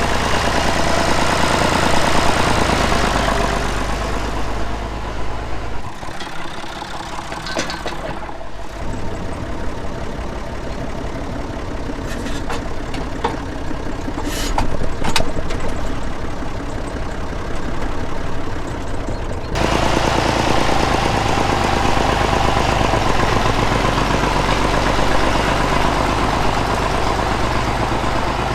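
Tractor engine running steadily. Its sound changes abruptly about six seconds in and again near twenty seconds in, with a few sharp clicks in between.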